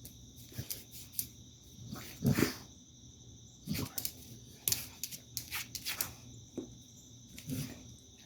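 Dog sniffing at a cicada, with a few short noisy huffs of breath, the loudest about two seconds in, and scattered clicks. A steady high insect drone runs underneath.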